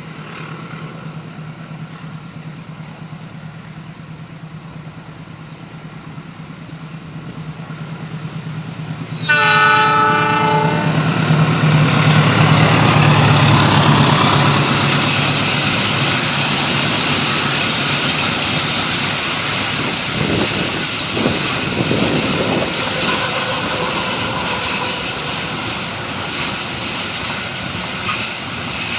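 A diesel-hauled passenger train approaching and passing on a curve: the locomotive's low engine hum grows louder, the horn sounds once, briefly, about nine seconds in, then the locomotive and carriages roll by loudly with clacking wheels and a high, steady squeal over the wheel noise.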